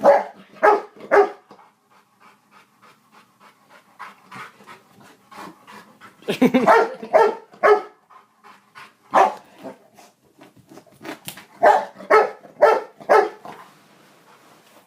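Excited pet dog barking in several bursts of sharp barks, panting between them, while it goes after a metal padlock.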